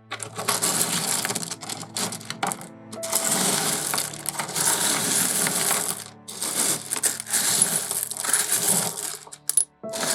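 Pieces of rough opal and potch clinking and rattling against each other as they are stirred and picked through by hand. The clatter comes in several spells with short pauses, over soft background music.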